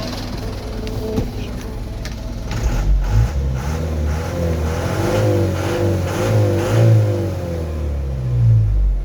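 Mitsubishi Canter truck engine running, then revved up and down several times from about two and a half seconds in.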